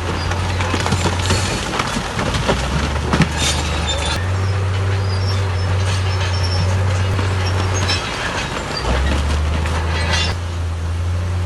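Diesel engines of heavy earthmoving machinery running steadily, with a deep drone that shifts abruptly in pitch a few times. Scattered crackling and clattering ride over it, heaviest in the first few seconds and again near the end.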